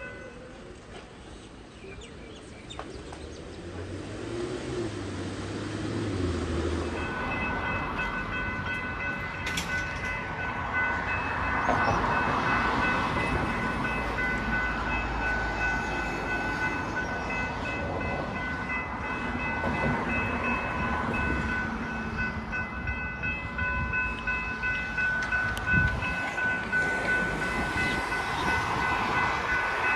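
A train rumbles through a level crossing, louder from about a dozen seconds in, while the crossing's warning bells ring steadily.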